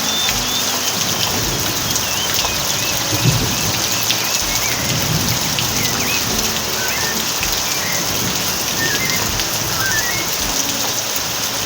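Steady rain falling, with small birds chirping in short, quick rising and falling notes throughout. A brief low thump about three seconds in.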